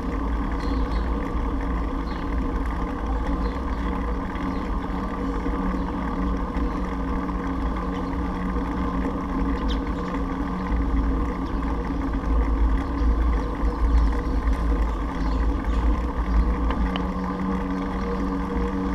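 Wind rushing over the microphone of a camera on a moving bicycle, with a heavy low rumble and a steady low hum, a little louder for a few seconds past the middle.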